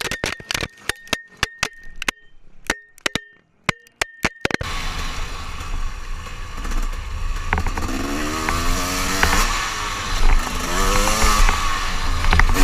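About four and a half seconds of sharp, evenly spaced clicks with a faint tone, then a dirt bike engine revving, its pitch rising and falling twice over a loud rush of noise.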